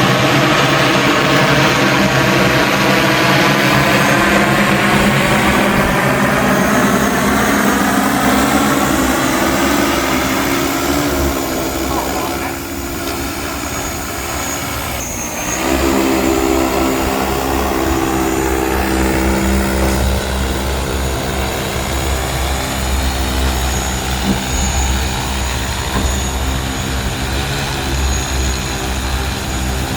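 A large delivery drone's propellers droning in flight, a dense stacked hum. Its tone sweeps in the first several seconds, dips in level briefly about halfway through, then returns to a steadier hum.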